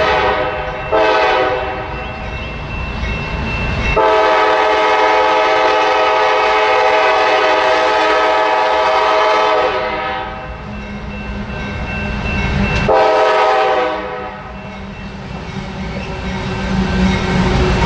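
Diesel freight locomotive's air horn sounding a series of blasts: one ends about a second in, a brief one follows, then a long blast of about six seconds and a shorter one later. The locomotive's low engine rumble builds toward the end as the train draws near.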